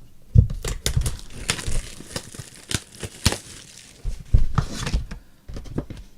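Trading-card pack wrapper being torn open and crinkled, with sharp clicks and rustles of the cards being handled.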